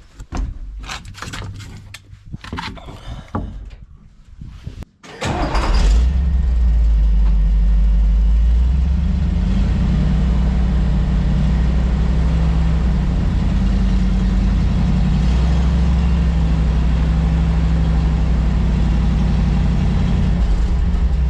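A few clicks and knocks, then a grain truck's engine starting about five seconds in and running steadily and loud.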